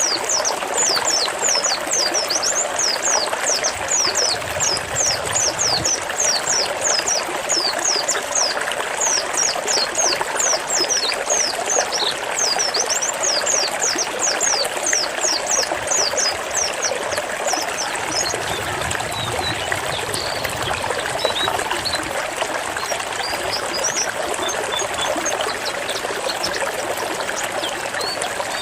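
White-eye (pleci) singing its 'zipper' phrase: a rapid string of high, quick downward-sweeping notes, about four a second, thinning out about two-thirds of the way through to scattered short chirps. A steady trickle of running water plays underneath.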